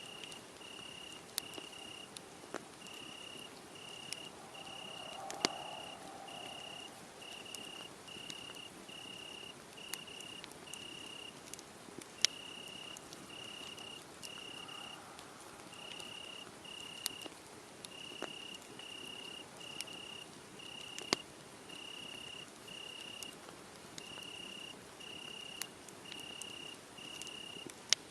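Crickets chirping steadily, a little under two high chirps a second with a couple of short pauses, over the occasional sharp pop and crackle of a wood fire.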